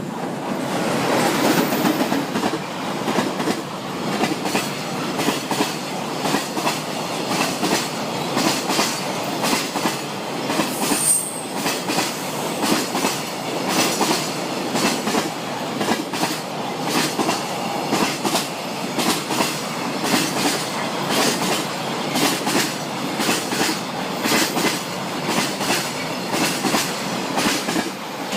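Container freight train hauled by a JR Freight EF210 electric locomotive passing close by. The wagons' wheels keep up a rapid, continuous clickety-clack over the rail joints.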